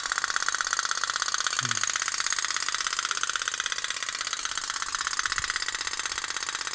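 Otok-otok (pop-pop) toy boat running: its little tin boiler, heated by a small oil-lamp flame, putting in a rapid, even popping rattle.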